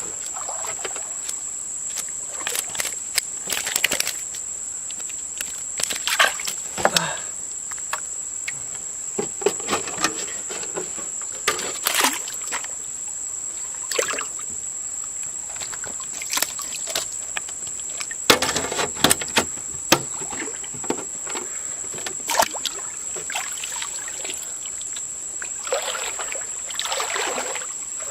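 Water splashing and sloshing in short, irregular bursts, over a steady high-pitched whine.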